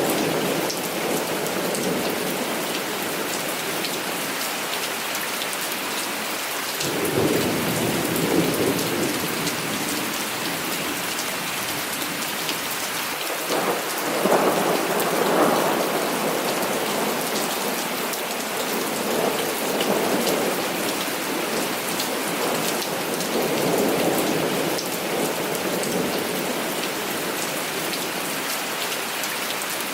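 Heavy rain falling steadily in a dense hiss, with thunder rumbling and rolling in several times, strongest about a quarter and halfway through.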